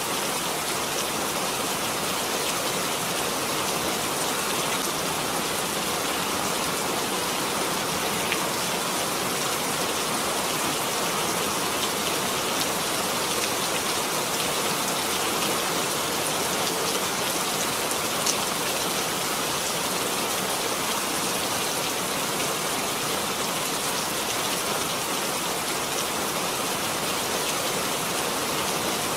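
Steady rain falling, an even hiss of drops with a few faint ticks of single drops.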